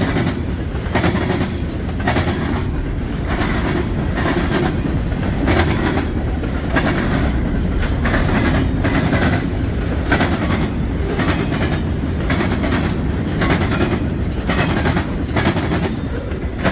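Freight train cars rolling past close by: a loud, steady rumble of wheels on rail, with sharp clacks about twice a second as the wheels cross rail joints.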